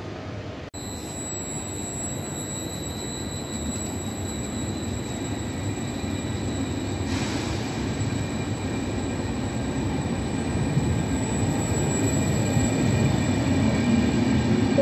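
Double-deck Trenitalia Rock electric train moving past close by, a steady rumble that grows louder, with steady high-pitched whines over it.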